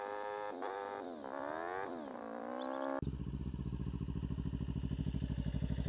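Kawasaki Ninja 300 parallel-twin engine pulling in first gear a fair way off, its pitch climbing and then dropping sharply several times as the throttle is opened and closed. About halfway through, a sudden cut to the bike idling close by, with a steady, fast low pulse.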